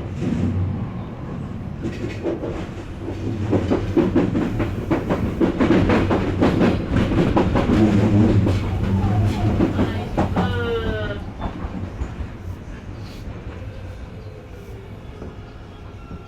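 Odakyu electric train running at speed, its wheels clattering rhythmically over rail joints with a heavy rumble that swells in the middle, then grows quieter and smoother. About ten seconds in, a short rising whine comes through.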